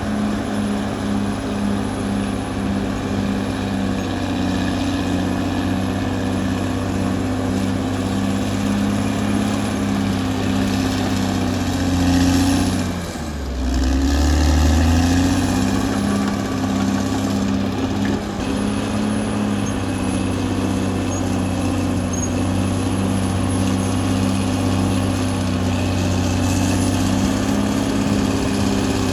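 Caterpillar D6R XL bulldozer's diesel engine running under load. About halfway through, the engine speed drops briefly and then climbs back up.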